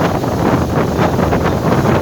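Wind buffeting the microphone aboard a moving passenger boat, a loud steady rush with small irregular gusts and splashes.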